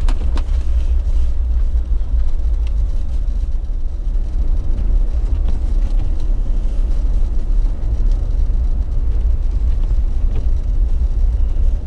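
Jeep driving along snow-covered streets: a steady low rumble of engine and tyre noise, with a couple of short clicks right at the start.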